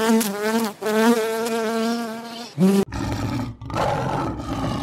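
A bee buzzing in a steady, slightly wavering hum that breaks briefly under a second in and cuts off near the three-second mark. Then a male lion gives a low, rough growl in two parts.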